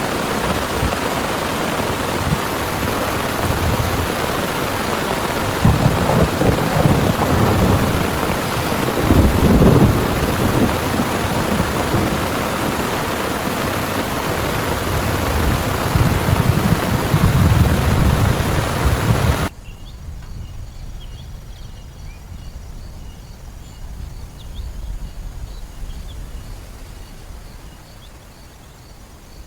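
Heavy rain pouring, with several deep rumbles of thunder rolling under it. About two-thirds of the way through, the downpour cuts off abruptly to a much quieter background with faint, repeated insect chirps.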